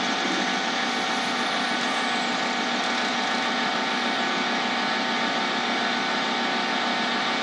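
Lathe running steadily while a cutting tool takes light turning passes on a cast resin blank, cutting through its PVC pipe shell toward the acrylic inside: a steady machine hum with several fixed tones over a hiss.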